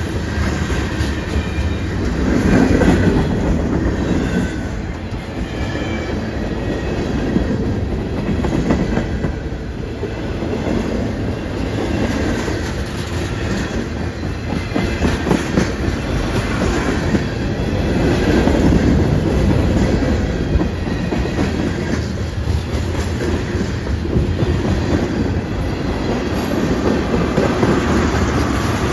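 A train rolling past, its long steady rumble of wheels on rail lasting the whole time, with faint high wheel squeal in places.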